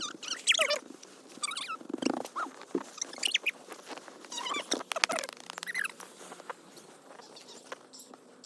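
Snow and ice being scraped off a car, irregular scratchy strokes with short squeaks, thinning out after about six seconds.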